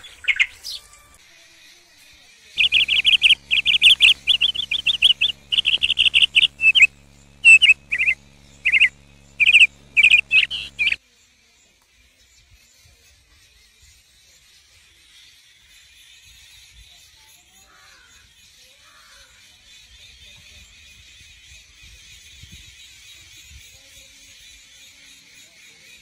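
Loud, rapid bird calls, high chirps repeated in quick bursts over a low steady hum, for about eight seconds; they stop abruptly about eleven seconds in, leaving a faint steady high-pitched background.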